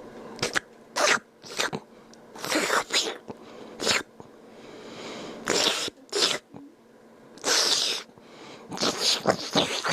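A man making loud, wet slurping noises with his mouth: about ten short, irregular slurps, some quick and some drawn out for half a second.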